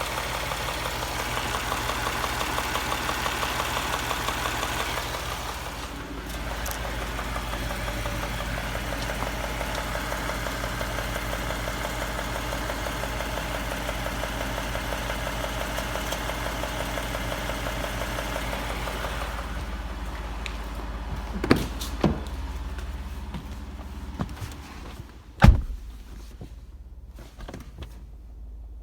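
Ford 3.5 EcoBoost twin-turbo V6 running, with a fast, even rhythmic ticking through the engine noise that the owner suspects is engine knock. Past the middle the engine sound drops away and a few sharp clunks follow, the last the loudest.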